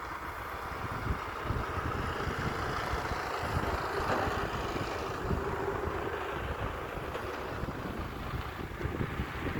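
Wind buffeting the microphone over a steady background rumble, with no distinct bangs.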